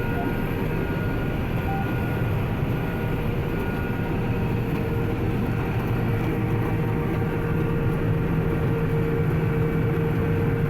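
John Deere 9750 STS combine running steadily while cutting wheat: a continuous drone from its diesel engine and threshing machinery. A steady whine comes in about five seconds in.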